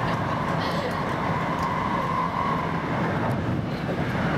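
Inside a VR Sm2 electric commuter train running at speed: steady rumble of wheels on rails and running noise in the carriage, with a faint whine that fades about three seconds in.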